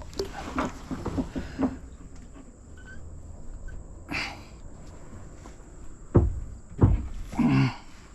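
Magnet fishing magnet loaded with scrap metal being hauled up into a kayak: small metal knocks and clatter, then two heavy thumps against the hull, and a short low voice sound near the end.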